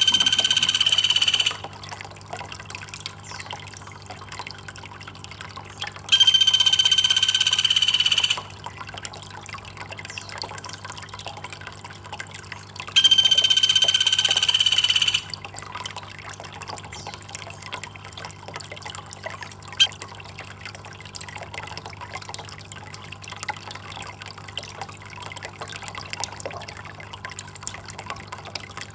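A high, flat call about two seconds long sounds three times, roughly seven seconds apart, over steadily trickling water.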